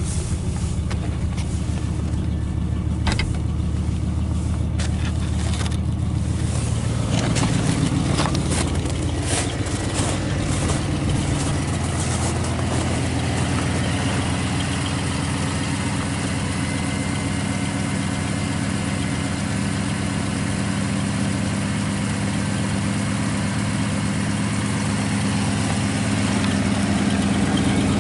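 1986 Pontiac Parisienne engine running just after a cold start in freezing weather, with the choke still needing adjustment. Its note shifts about seven to ten seconds in, then settles into a steady idle. There are scattered sharp clicks in the first dozen seconds.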